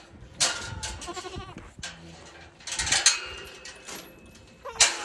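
Nubian goats bleating several times, one call with a quavering, wavering pitch about half a second in.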